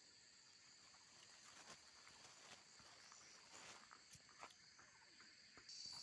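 Faint chorus of night insects, a steady high-pitched trilling, with scattered soft rustles and footstep-like ticks. A louder high insect buzz joins near the end.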